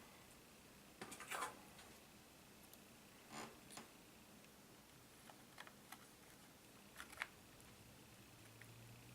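Faint clicks and short scrapes of plastic laptop parts and small hardware being handled during disassembly. A small cluster comes about a second in, two more around three and a half seconds, then a few single ticks.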